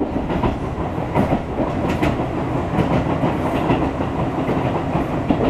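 Tobu Railway train running along the line, heard from inside the car: a steady rumble of the wheels on the rails, with a few sharp clicks over the rail joints.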